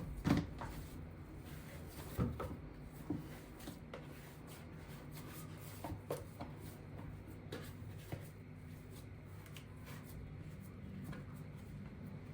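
Scattered knocks and clunks of things being handled in a kitchen, such as cupboard doors and items being set down, over a steady low hum. The loudest knocks come just after the start and about two seconds in.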